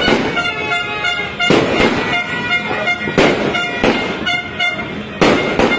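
Fireworks cake firing, with about seven sharp bangs at uneven intervals of roughly half a second to a second and a half. Steady horn-like tones sound between the bangs.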